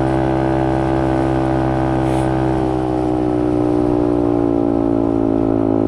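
Benelli TNT 125's single-cylinder engine running steadily while riding, its pitch easing down slightly partway through and then holding.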